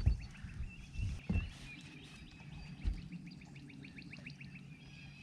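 Quiet outdoor ambience with a bird chirping in rapid, repeated short notes in the background, and a few low thumps in the first second and a half.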